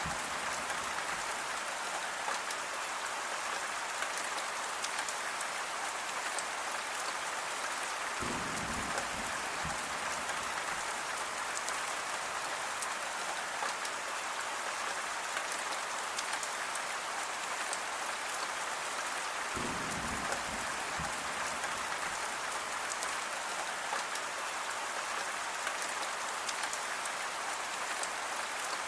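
Steady, dense rainfall hissing without a break. A brief low rumble rises under it twice, about a third and two-thirds of the way through.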